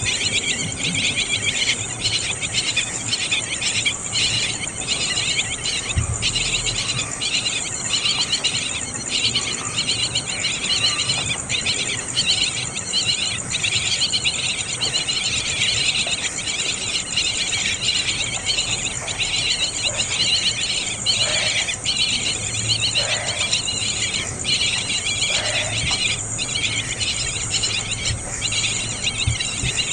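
Dense, steady chirring of crickets or similar insects, pulsing several times a second. About two-thirds of the way through, three short lower calls sound over it.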